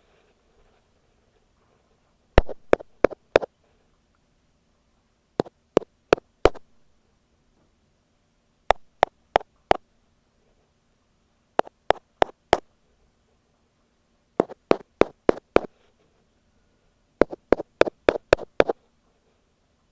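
Ear pick tapping directly on an earphone microphone: sharp clicks in quick groups of four to seven, a new group about every three seconds.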